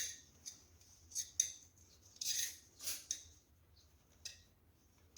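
Irregular short scrapes and clicks, about half a dozen, of a thin screwdriver pushing sealant-coated sealing cord into the gap around a stove's flue adapter in a wall opening.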